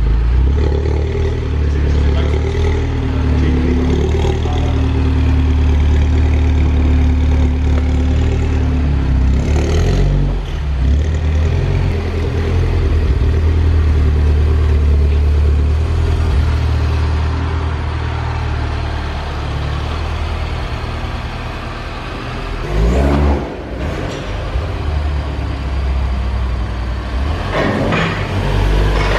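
Mini John Cooper Works GP's turbocharged four-cylinder running with a high-flow sports catalytic converter fitted, with a steady deep exhaust note and two quick rises in revs in the last few seconds.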